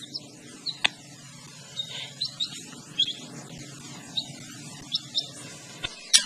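Small bird peeping: faint, short high chirps at irregular intervals, with a sharp click about a second in and a louder one near the end.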